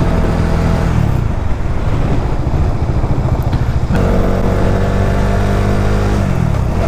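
Motorcycle engine running while riding. Its steady note breaks up into a rougher, lower rumble about a second in, comes back strongly about four seconds in, and shifts in pitch near the end.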